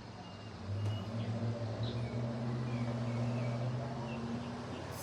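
A vehicle's engine hums low and steady, swelling about a second in and easing off near the end. No firework bangs are heard.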